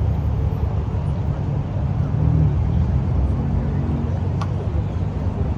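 Steady low rumble of car engines running and traffic, with a single sharp click a little past the middle.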